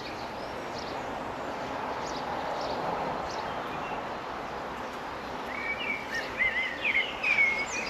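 A steady hum of honeybees around an open hive. About two-thirds of the way in a small songbird starts chirping and trilling, and it is the loudest sound near the end.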